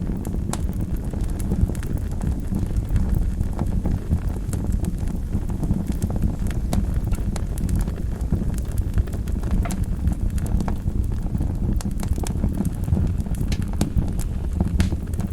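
Wood fire burning in a fireplace: a steady low rumble of flames with frequent irregular pops and crackles from the burning wood.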